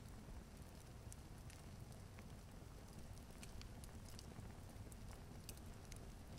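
Log fire crackling faintly: scattered, irregular sharp pops and snaps over a low, steady rumble.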